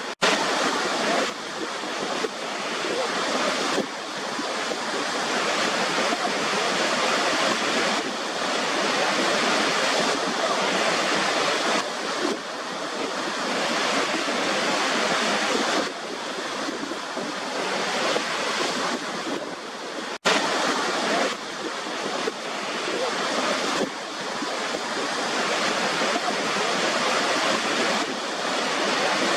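Waterfall: a steady, dense rush of falling water that cuts out for an instant twice, just after the start and about twenty seconds in, where the recording is spliced.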